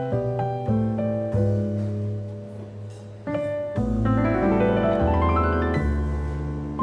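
Background piano music: soft struck notes and chords, with a rising run of quick notes about four seconds in.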